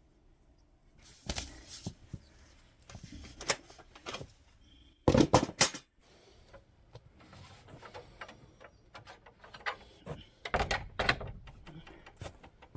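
Irregular knocks and clatter, loudest in a quick cluster about five seconds in and again about ten and a half seconds in.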